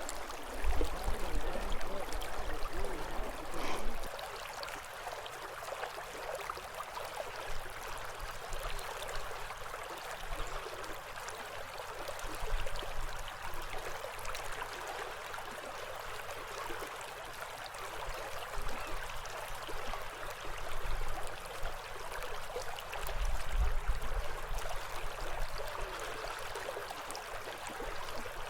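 Kasilof River current rushing steadily, an even hiss of moving water. A few low rumbles come and go: in the first few seconds and again about 23 seconds in.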